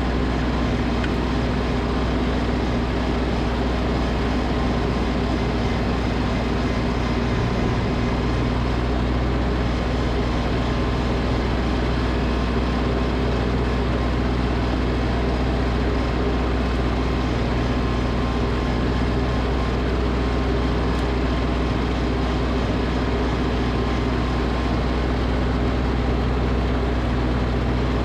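Snowblower engine running steadily at a constant speed, with a loud, even hum.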